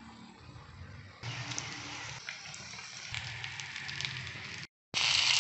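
Breadcrumb-coated chicken patties shallow-frying in hot oil in a pan, a steady sizzle and crackle of spitting oil. The sizzle is faint at first and gets louder about a second in; it drops out briefly near the end and comes back louder.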